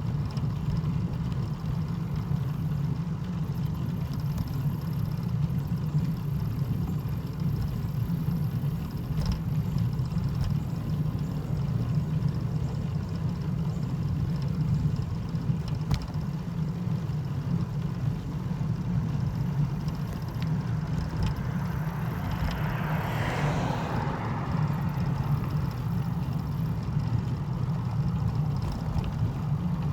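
A steady low rumble like a vehicle engine running, with a brief hissing swell about 23 seconds in.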